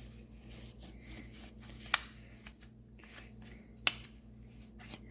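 Rag wiping over a clamp on a backpack blower tube, a faint rubbing, with two sharp clicks about two seconds apart.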